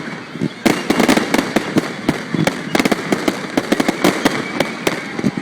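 Fireworks display going off: a rapid, dense crackle of many sharp cracks and pops, with a fresh volley starting about half a second in.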